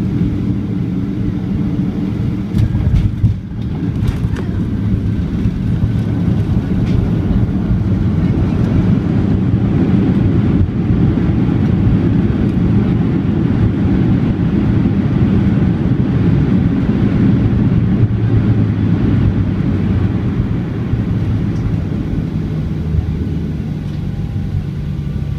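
Airliner landing: a steady low rumble of jet engines and rolling, with a faint slowly falling whine and a brief thump about three seconds in.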